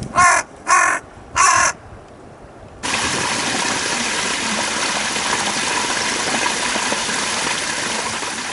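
A crow caws three times in quick succession in the first two seconds. After a short lull, a steady rushing noise sets in about three seconds in and holds until the end.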